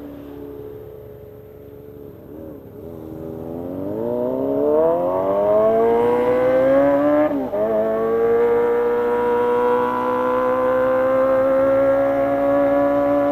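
Kawasaki ZX-25R's 250 cc inline-four engine, running low at first and then revving up in a steadily rising wail. About seven seconds in there is a brief dip at an upshift, after which it holds a high, steady note that creeps slowly higher.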